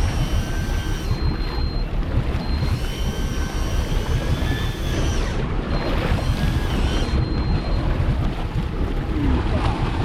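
Wind buffeting the microphone over the rumble of a boat on open ocean water, with faint high steady whining tones that come and go.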